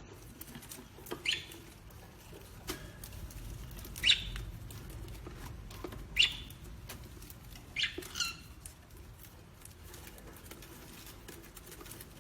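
A parrot giving short, sharp chirping calls, about five in all, the last two close together, with faint scattered clicks between them.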